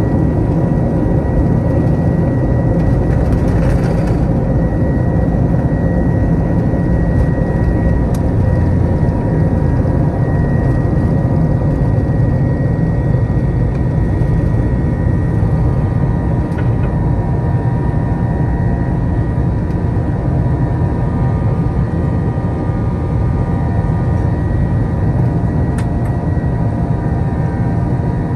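The cabin sound of an Airbus A321-231's IAE V2500 jet engines running at high thrust during takeoff: a loud, steady low rumble with constant whining fan tones above it.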